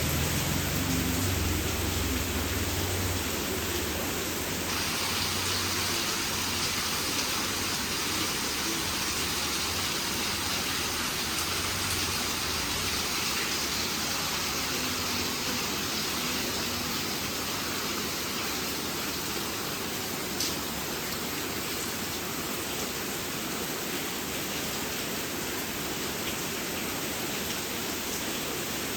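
Heavy rain falling, a steady even hiss that grows brighter about five seconds in.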